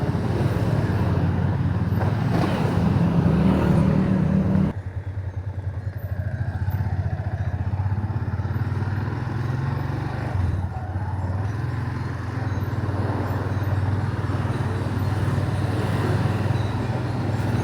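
Motorcycle engine running under way, heard from the rider's seat: louder and higher until about five seconds in, then dropping abruptly to a lower, steady hum.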